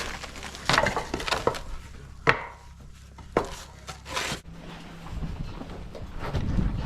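A few irregular sharp knocks on wooden framing studs, the loudest about two seconds in, with a brief scraping rub of lumber around four seconds in, as studs are set and levelled.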